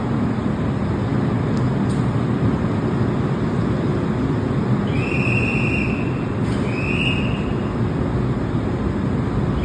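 Electric commuter train running, with a steady rumble. Brief high-pitched squeals come about five seconds in, again at about seven seconds, and once more at the very end.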